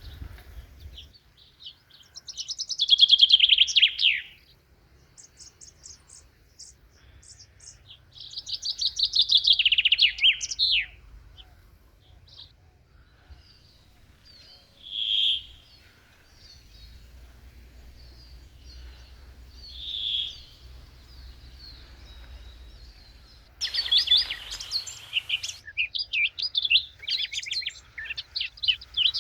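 Wild songbirds singing. A loud song of rapid notes falling in pitch comes twice, a few seconds apart, then a few short single calls, and near the end busier overlapping chirping from several birds.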